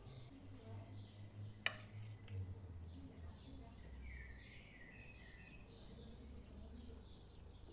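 Faint birds chirping in the background over a low steady hum, with one sharp click about a second and a half in.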